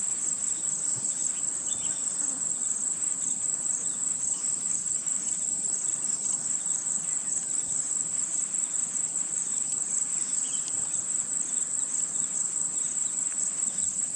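Steady high-pitched chorus of insects, a continuous fine pulsing buzz.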